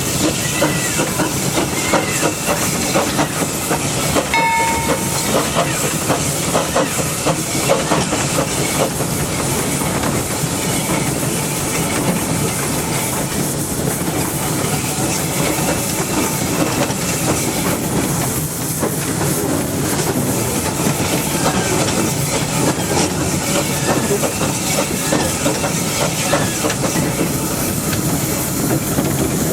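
Narrow-gauge steam locomotive running, heard close up from its running board: a steady hiss of steam with the wheels clicking over the rail joints. A brief high tone sounds about four seconds in.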